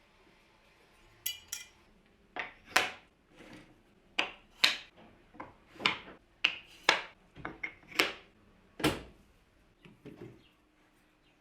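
Irregular workshop knocks and clatter as tools and parts are handled, about a dozen sharp strikes spread over several seconds. Two strikes about a second in ring like metal.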